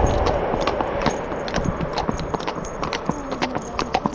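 Two horses' hooves clip-clopping at a walk, sharp uneven hoofbeats, while a passing vehicle's low rumble fades away in the first second.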